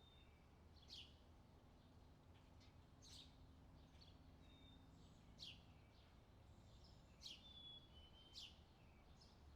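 Small birds chirping faintly: short, sharp down-sweeping calls every second or two, with a few brief thin whistles between them, over a faint low rumble.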